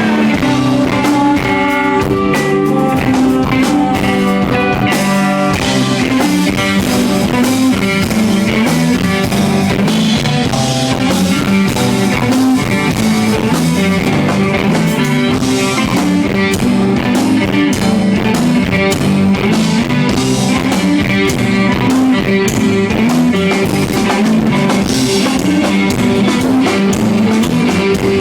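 Live rock band playing an instrumental passage: electric guitars and a drum kit, loud and continuous.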